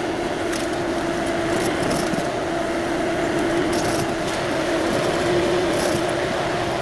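An engine-driven machine running steadily with a constant hum and whine, with light metallic clinks and rattles now and then.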